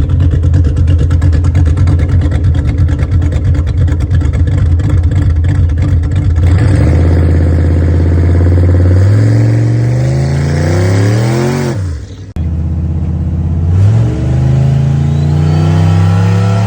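Turbocharged LS V8 in a 1962 GMC pickup running loud. It holds steady for about six seconds, then revs up with rising pitch, drops off sharply about twelve seconds in, and climbs again near the end.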